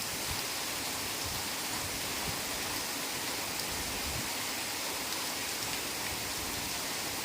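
Heavy rain falling steadily in a forest, an even hiss of rain on leaves and ground.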